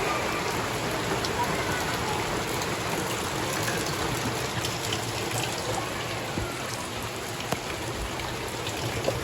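Heavy rain falling steadily, a dense even hiss with scattered sharp drips and splashes.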